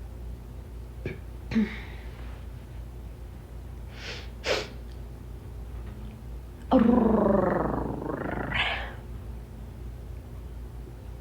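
A woman imitating a cat: two short breathy hisses, then one loud drawn-out cat-like cry lasting about two seconds that rises in pitch near its end, made to stir up her cats.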